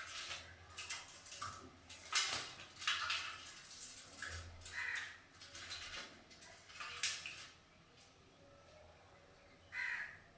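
Conure bathing: irregular splashing and fluttering with short harsh calls. It goes quiet for about two seconds, then one more burst comes near the end.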